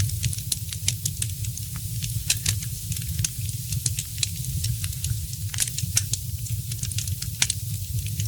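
Wood fire in a fireplace crackling, with frequent sharp pops and snaps, some louder than others, over a steady low rumble.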